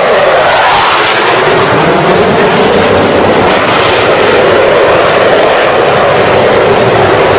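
A Blue Angels jet flying past: loud, steady jet engine noise whose pitch slowly sinks and rises again.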